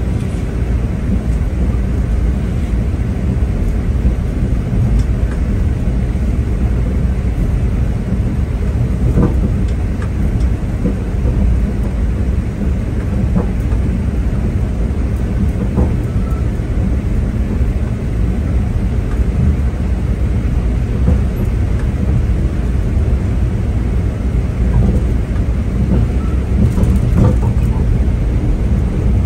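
Steady low rumble of a V/Line diesel passenger train running along the track, heard from inside the carriage, with a few faint clicks scattered through it.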